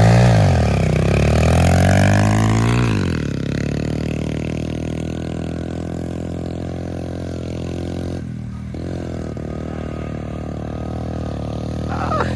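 Pit bike engine revving in quick rises and falls for the first few seconds, then running at a steady pitch for the rest.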